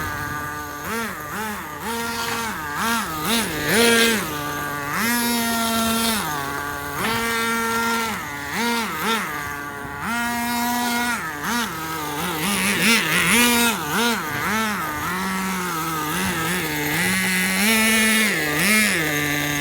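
Two-stroke glow-fuel nitro engine of a 1/10-scale Silverline NTX (HSP) monster truck running, revved up and down over and over with short spells at idle between, as the truck is driven in bursts.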